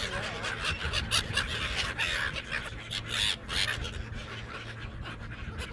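Seagulls squawking over a crowd of people chattering and laughing as the birds are fed in flight.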